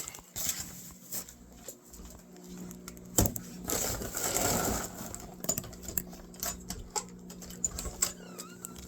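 Scattered clicks and rattles of small things being handled, with a sharp knock about three seconds in and a brief rustling scrape just after.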